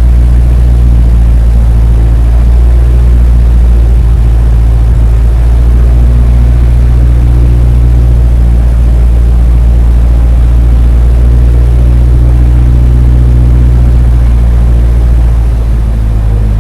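A heavy engine running at a steady speed, a loud low drone with an even stack of engine tones and little change, easing off slightly near the end.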